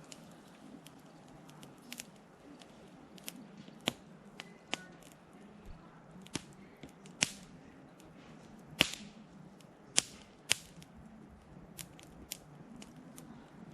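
Wood fire crackling: irregular sharp pops and snaps, a handful of them much louder, over a faint steady background.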